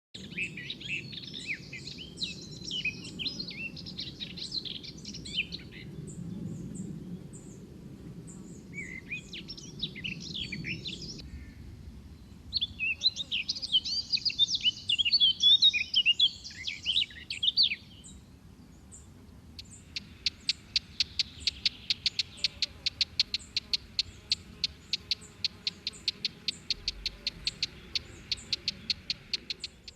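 Songbirds singing: bursts of quick, twittering chirps that come and go, then, from about two-thirds of the way in, a steady run of short repeated notes, about four or five a second.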